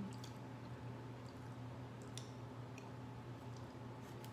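Faint, scattered small clicks and squishes of a cooked crab shell being picked and pried open by hand, over a steady low hum.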